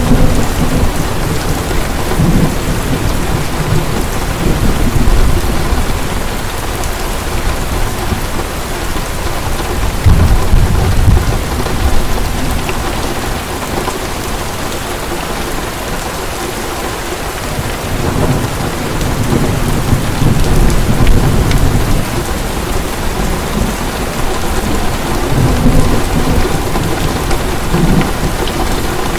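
Heavy rain falling steadily, with rolls of thunder rumbling low and swelling several times: near 10 seconds in, again around 18 to 22 seconds, and near the end.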